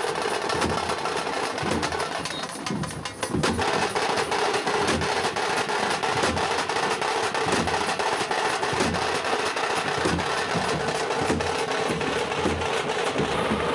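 Several tamate, the Karnataka folk frame drums, beaten with sticks in a fast, dense rhythm. The drumming dips briefly about three seconds in, then comes back at full strength.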